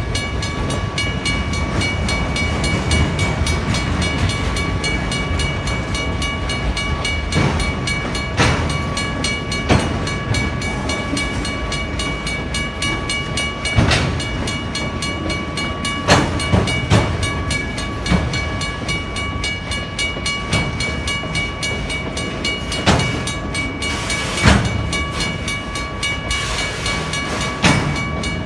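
CN train rolling slowly through a road crossing, its wheels clacking over the rail joints every few seconds above a low rumble, while the crossing signal's WRRS mechanical bell rings steadily.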